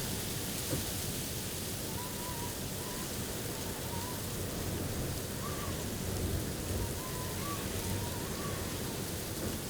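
Steady blizzard wind noise, with a few faint, short wavering whistles now and then.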